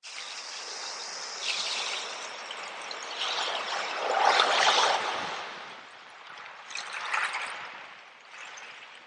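Ocean waves washing in, a hiss of surf that swells and ebbs several times, the biggest wave about four to five seconds in.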